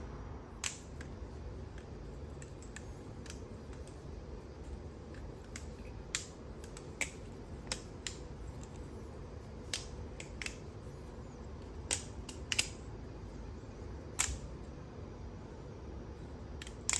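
Balisong being flipped: sharp, irregular clicks of the handles and pins knocking together as the knife opens and closes, about one every second or two.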